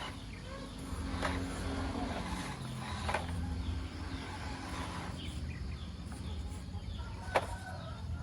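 Mini RC off-road car's small electric motor whining at shifting pitch over a low rumble, with a few sharp clicks or knocks; the loudest knock comes about seven seconds in.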